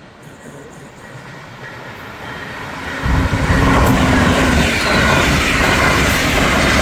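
Passenger train approaching on the track, its rumble growing steadily louder, then passing close by from about three seconds in with a loud, heavy rumble of wheels on rail.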